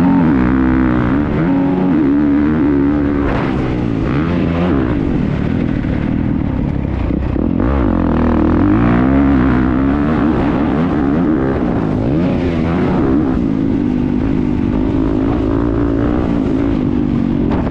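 Motocross bike engine heard from a camera mounted on the bike, revving hard with its pitch rising and falling again and again as the rider works the throttle around the track.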